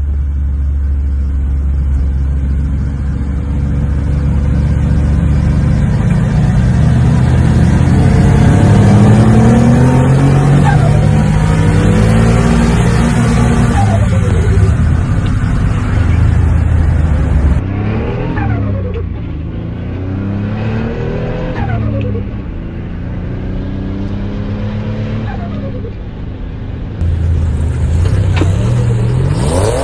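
Turbocharged V6 of a Holden VY Commodore heard from inside the cabin. It cruises steadily at first, then is pushed hard, its pitch climbing through the gears. Later the revs rise and drop again and again with each gear change.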